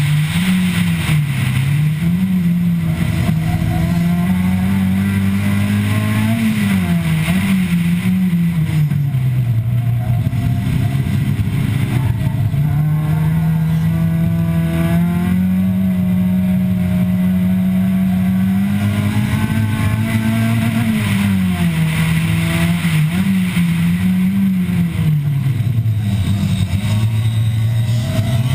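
Nissan Sentra B15's SR20 four-cylinder engine under hard acceleration, its note climbing through the revs and dropping back several times as the driver lifts and brakes, with a long steady stretch in the middle.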